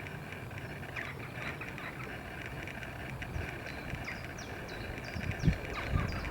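Outdoor nature ambience: a steady high buzz with a run of short, high, falling chirps in the second half and a few low thumps near the end.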